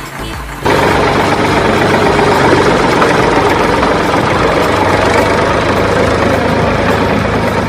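Tractor engine running steadily at idle, cutting in abruptly under a second in and staying loud and even.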